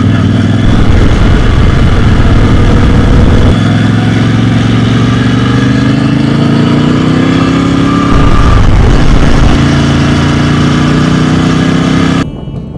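Adventure motorcycle engine under way on the road, its note rising steadily as it accelerates and dipping once about eight seconds in before climbing again. Near the end the engine sound cuts off abruptly.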